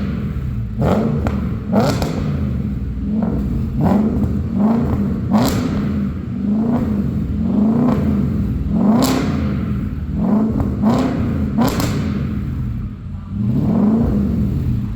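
Audi A8 with a valved (variable) exhaust being blipped over and over, roughly one rev a second, the engine note rising and falling each time, with sharp cracks on the throttle blips.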